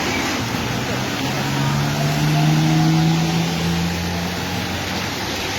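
Steady heavy rain, with a motor vehicle passing: its engine hum swells about a second in, is loudest midway and fades near the end.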